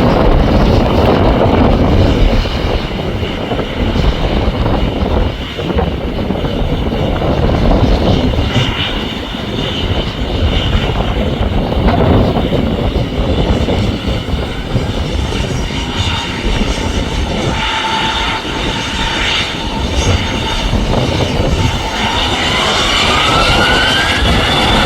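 Boeing 737-900's CFM56 jet engines running, heard through a heavy, gusting rumble of strong wind on the microphone. Near the end an engine whine rises steadily in pitch.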